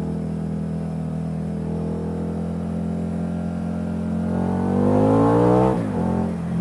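Motorcycle engine running steadily, then accelerating with a rising pitch from about three and a half seconds in, and dropping sharply near the end as it shifts up a gear.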